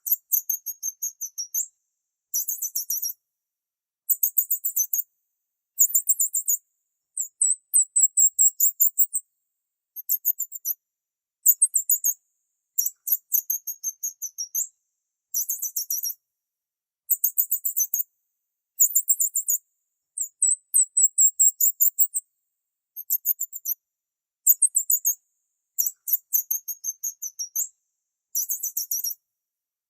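Small songbird chirping in short, very high-pitched trilled phrases, one every second or two with brief silent gaps between and no background noise.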